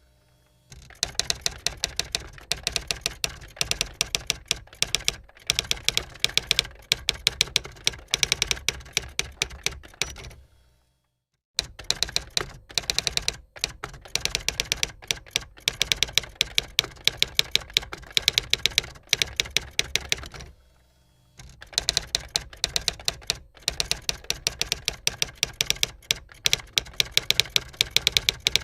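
Typewriter being typed on: rapid, irregular key strikes in long runs, broken by brief pauses about a third and two-thirds of the way through.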